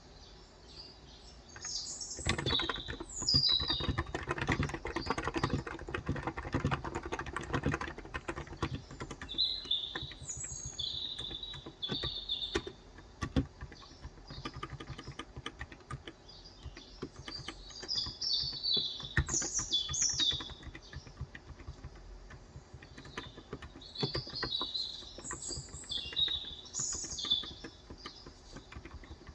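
Typing on a Cox Endeavour electro-capacitive (contactless) 35 g tenkeyless keyboard: a fast, dense run of keystrokes about two seconds in, then slower, scattered keystrokes. Small birds chirp in the background throughout.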